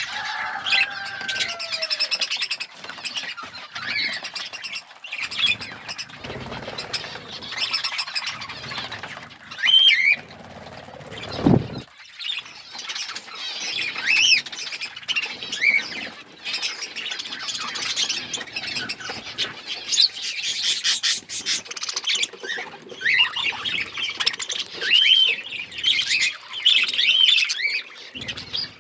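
A flock of budgerigars chattering: a continuous mix of overlapping chirps, warbles and short squawky calls.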